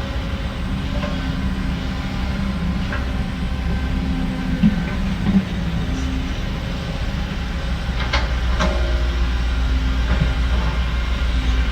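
Heavy diesel earthmoving machinery running steadily with a low drone, with a few metal clanks in the middle and two sharp knocks about eight seconds in.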